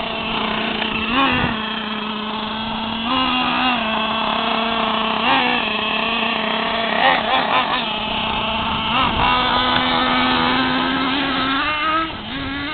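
Radio-controlled monster truck's small engine running at a steady, high buzzing pitch, with short rev blips every couple of seconds.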